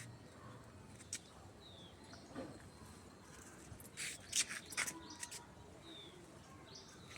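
Birds chirping outdoors: a few short, high, down-slurred notes and scattered brief chirps over faint background hiss.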